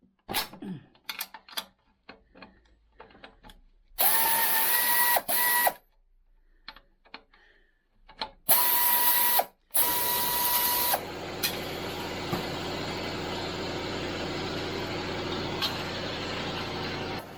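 Small clicks of hand work with tools, then a power tool runs in three short bursts, each a hiss with a steady whine. From about eleven seconds a steady machine noise with a low hum carries on.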